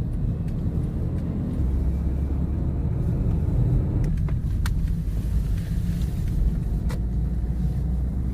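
Road noise inside a moving car's cabin: a steady low rumble of engine and tyres, with two light clicks about halfway through.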